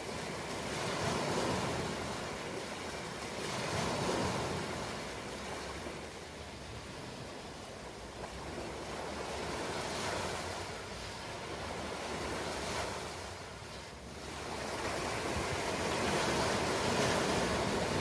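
Ocean waves: a steady rush of surf that swells and eases in slow surges every few seconds, building up again over the last few seconds.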